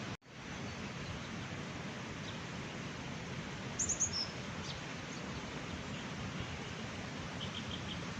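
Birds chirping a few times about four seconds in, with fainter quick chirps near the end, over a steady rushing outdoor noise. The sound cuts out for a moment just after the start.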